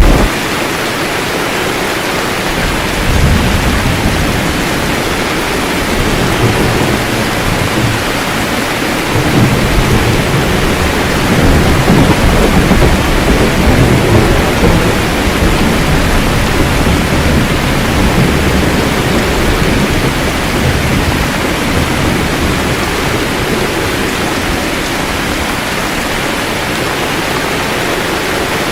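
Steady heavy rain with low rolling thunder that swells several times, loudest in the middle, and eases off near the end.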